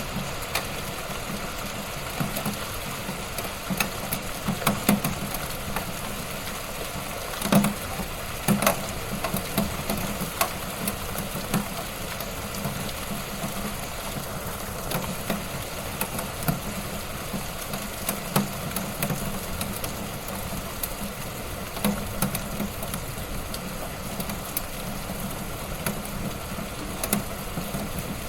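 Wood fire burning in a fireplace: a steady hiss with frequent, irregular sharp crackles and pops.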